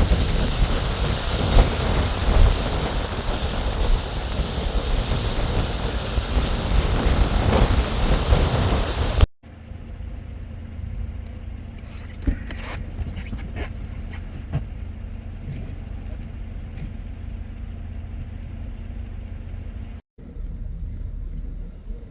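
Strong wind blowing hard across the microphone in a whiteout snowstorm for about the first nine seconds. After a sudden cut, a much quieter low rumble with a faint steady hum takes over.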